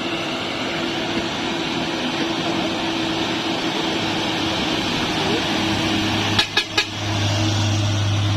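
Heavy truck engine running steadily amid road traffic noise. A deep engine drone builds from about halfway and grows louder near the end. Three short sharp sounds come in quick succession a little after six seconds in.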